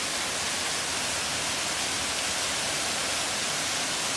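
Waterfall pouring down a rock face: a steady rush of falling water.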